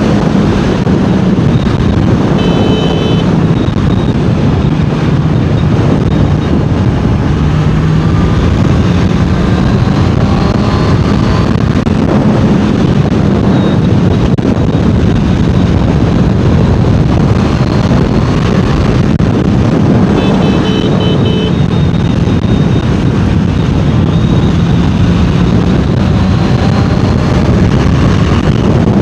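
Honda CBR650R inline-four engine and exhaust running under way, its pitch rising and falling as the rider works the throttle and gears, with wind rushing over the microphone. Two short high beeping tones, like a horn, sound about two seconds in and again about twenty seconds in.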